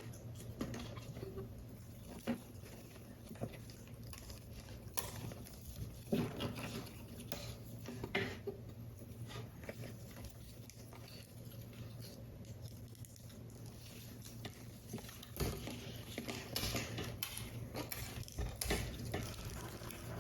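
Paper model pieces being handled and assembled by hand: irregular small taps, clicks and rustles of card, over a steady low hum.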